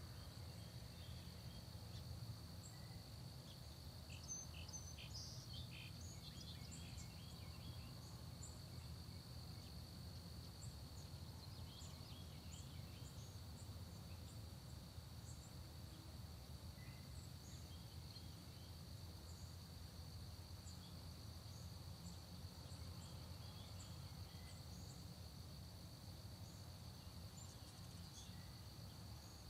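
Faint countryside dawn ambience: a steady high-pitched cricket chorus, with scattered short bird chirps, a cluster about four to seven seconds in and another around twelve seconds, over a low steady rumble.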